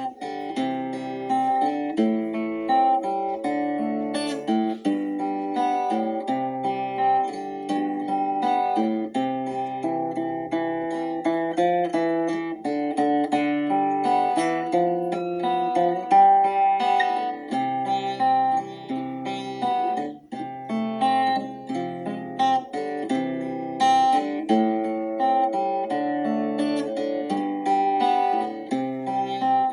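Instrumental music played on acoustic guitar: a steady run of plucked notes over a moving low bass line, with no singing.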